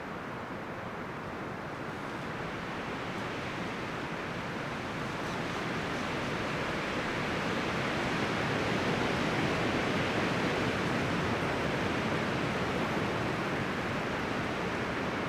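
Wind through the leaves and branches of forest trees, a steady rustling that swells in strength over the first half and then holds.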